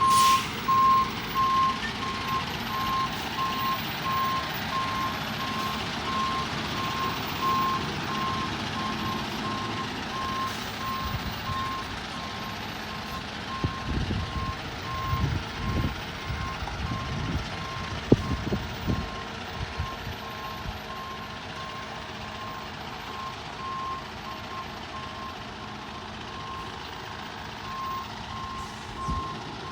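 Garbage truck's reversing alarm beeping at a steady, even rate over the idling truck engine, with a run of low knocks and rumbles about halfway through.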